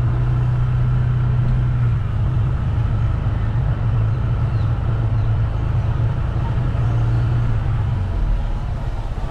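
Engine of a vehicle being driven, a steady low hum with road noise.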